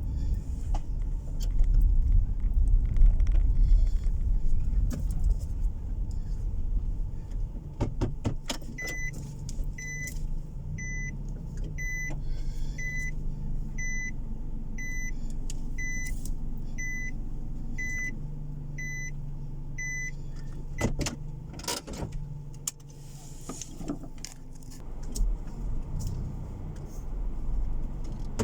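Car interior with low road and engine rumble, and an electronic beep sounding about once a second, twelve times in the middle of the stretch. Short clusters of clicks come just before and just after the beeping.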